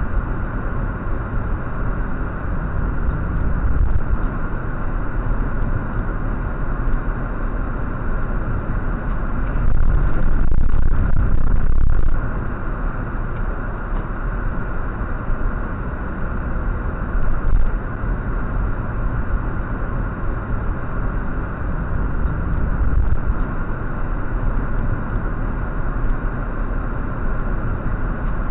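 Steady engine and road noise of a car driving, a little louder for a couple of seconds about ten seconds in.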